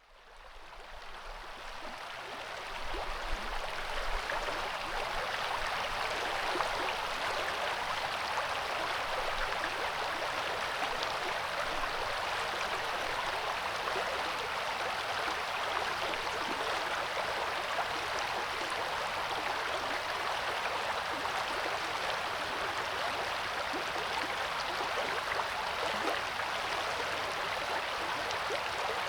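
River water rushing steadily, fading in over the first few seconds and then holding an even level.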